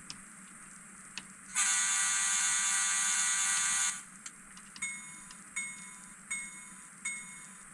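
Model locomotive's DCC sound decoder sounding the horn through a tiny speaker: one long blast of about two seconds, then the bell ringing about once every three-quarters of a second. The sound is thin and high, the speaker judged slightly too small.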